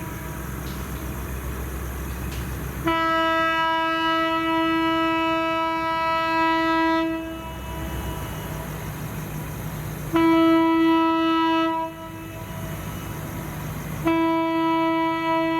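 Locomotive air horn blowing one steady note in blasts: a long blast starting about three seconds in, a short one about ten seconds in, and another long one starting near the end, fitting the long-long-short-long grade-crossing signal. A low diesel rumble runs underneath.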